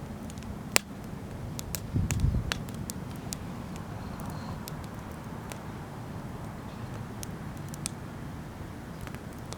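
Wood fire crackling: irregular sharp pops and snaps over a steady low rumble, with a louder low rumble about two seconds in.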